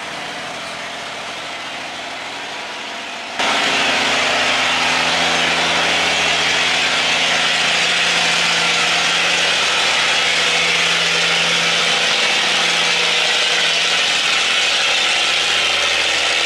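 Barge's diesel engine running hard, with a steady low drone under a loud hiss. About three seconds in it jumps abruptly louder and then holds steady.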